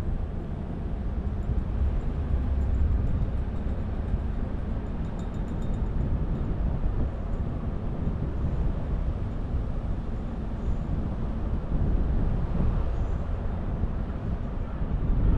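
Steady road noise of a car being driven: low tyre and engine rumble, with no sharp events.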